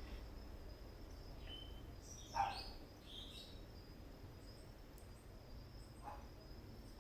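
A dog barks faintly twice, the louder bark about two and a half seconds in, with a few short bird chirps, over a low steady rumble.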